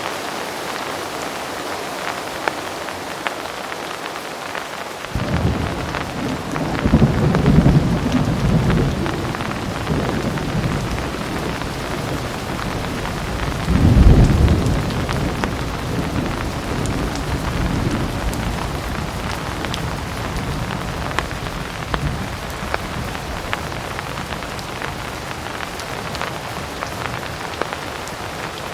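Heavy rain falling steadily, with many individual drops ticking. About five seconds in, a thunder rumble begins. It swells twice, loudest near the middle, then fades back into the rain.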